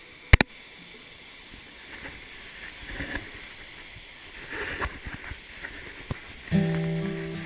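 A sharp click just after the start, then a soft, steady outdoor hiss with a few faint knocks. Plucked guitar notes of background music come in about six and a half seconds in.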